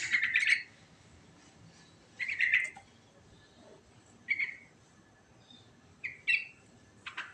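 Yellow-vented bulbul (trucukan) singing five short phrases, each under a second long, with pauses of a second or two between them.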